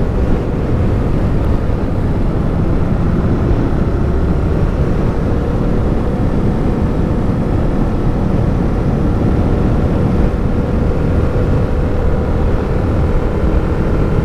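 Suzuki GSX motorcycle engine running at a steady cruising speed under heavy wind rush over the microphone, the engine note holding a steady pitch.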